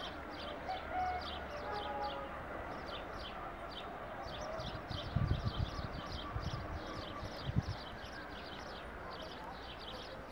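A small bird chirping over and over, short high chirps about three a second, over a faint murmur of distant voices. A few low thumps come in about five seconds in and again near eight seconds.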